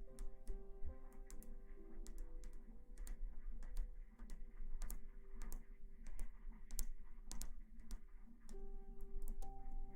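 Irregular sharp clicks and taps, several a second and unevenly spaced, over soft background music with long held notes.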